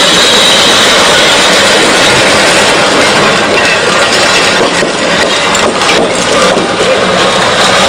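Road roller's diesel engine running steadily as its drum crushes rows of glass liquor bottles. From about three seconds in, many sharp cracks of breaking glass come through the engine noise.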